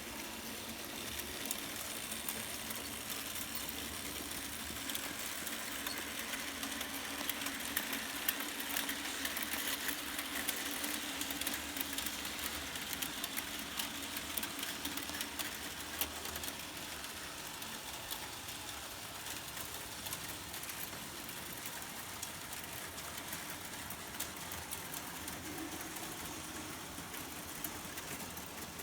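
Märklin HO model trains running on metal M track: a steady din of small electric motors and wheels clicking over the rails, with a steady low tone underneath.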